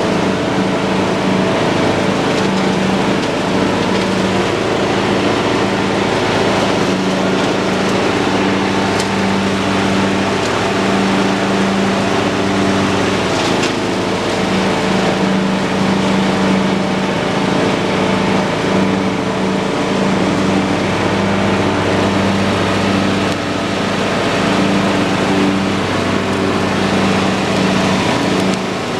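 John Deere lawn tractor engine running steadily while mowing, a constant, even drone.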